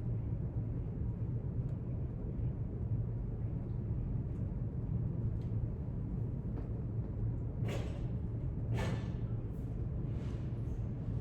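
Library room tone: a steady low hum, with three brief rustling sounds in the last few seconds.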